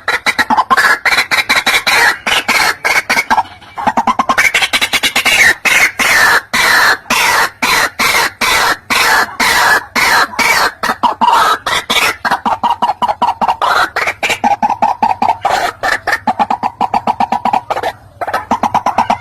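White-breasted waterhen calling: a long, loud run of rapid repeated croaking notes, several a second, becoming harsher and higher-pitched through the middle before settling back.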